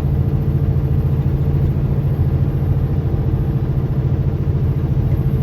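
Semi-truck's diesel engine running with a steady low drone, heard from inside the cab.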